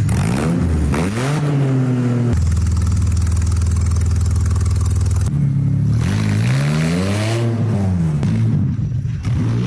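A hot rod's gasoline engine being revved, its pitch rising and falling in repeated blips. It holds at a steady speed for about three seconds in the middle, then is revved up and down again.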